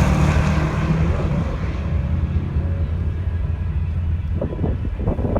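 Fox-body Mustang GT's 5.0 V8 at full throttle on a drag-strip pass, a low steady engine drone that slowly fades as the car pulls away down the track.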